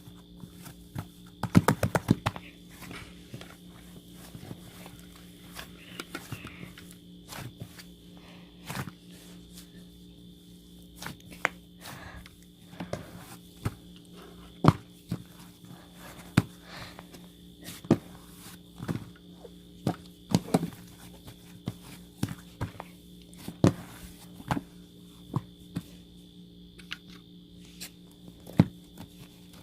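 Scattered light knocks and clicks at irregular intervals, with a quick run of taps about two seconds in, over a steady electrical hum.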